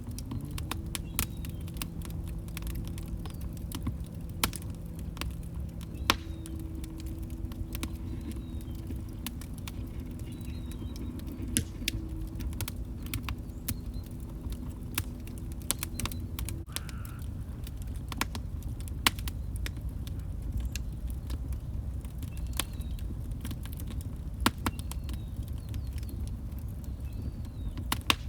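Log fire crackling and popping in a fireplace: irregular sharp snaps over a steady low rumble of burning. A low steady hum runs underneath and cuts off about two-thirds of the way through.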